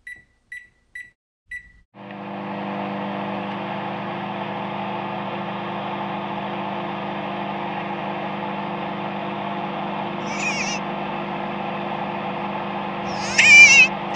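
Microwave oven keypad beeping four times as the time is entered, then the oven starts and runs with a steady hum. A brief high warbling cry sounds about ten seconds in, and a louder one near the end.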